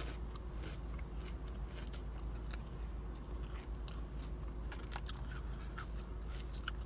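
A person chewing salad with soft crunches, with scattered light clicks of a plastic fork against a plastic container.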